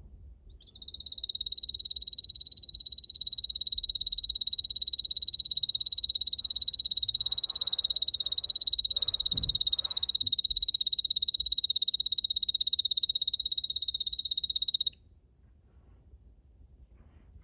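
Red canary singing one long, rapid trill at a steady high pitch, held for about fourteen seconds and cutting off sharply.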